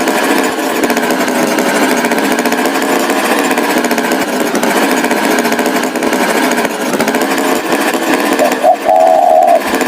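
Tractor engine sound effect, running loud and rough without a break. Near the end a short, higher tone sounds twice.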